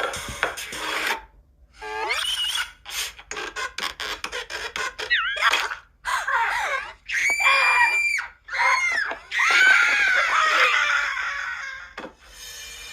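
Parrot calling: a run of quick clicks, then several shrill squawks and screeches that bend up and down in pitch. The loudest are about seven to eleven seconds in.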